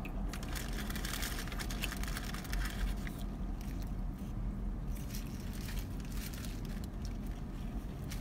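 Close-up chewing and mouth sounds of burgers being eaten, with paper wrappers crinkling, as a run of small clicks and crackles. Under them is a steady low hum in the car's cabin.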